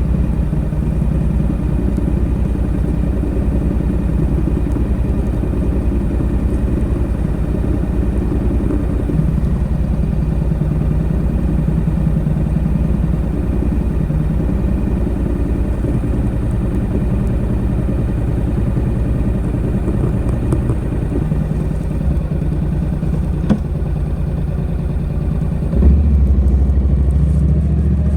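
Honda NC700X's 670 cc parallel-twin engine running steadily through its stock exhaust. It gets louder and deeper near the end.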